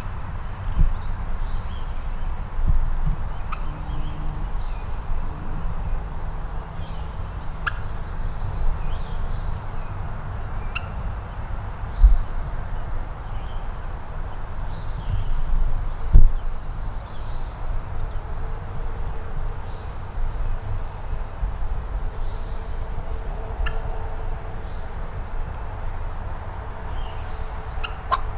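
Wild turkey calls, with scattered short chirps, over a steady low rumble.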